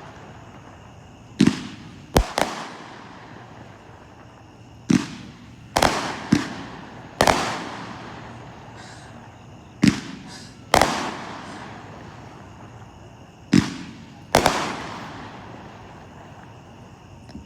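An 18-shot consumer firework cake firing: about ten loud sharp bangs from its shells bursting overhead, at uneven intervals, some in quick pairs, each dying away over a second or so.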